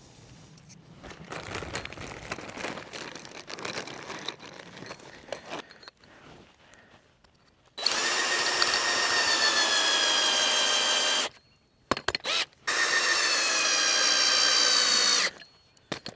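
Scraping strokes for a few seconds, then a handheld power tool's motor runs twice, about three seconds each, with a steady whine that sags slightly in pitch as it works.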